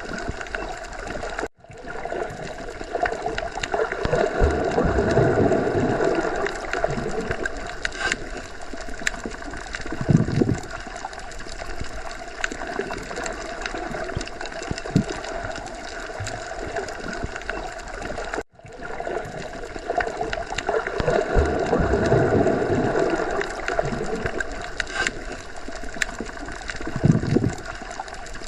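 Underwater ocean ambience: a steady wash of water noise with low gurgles that swells and eases twice. It drops out for an instant twice, about 17 seconds apart, where the same stretch of recording loops.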